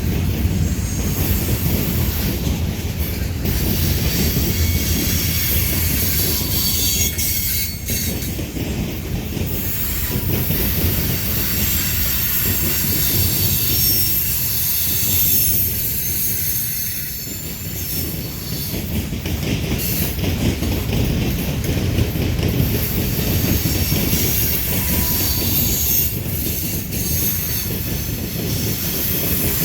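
Freight cars of a Norfolk Southern manifest train rolling past at steady speed: a continuous rumble and rattle of wheels on rail, with clicks over rail joints and a high, thin squeal from the wheels.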